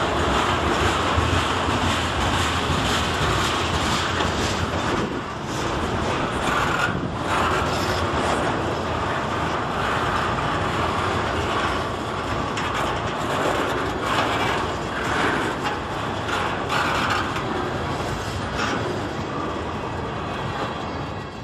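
Freight train of tank cars rolling past close by: steady wheel-on-rail noise from the passing cars, fading near the end as the last cars go by.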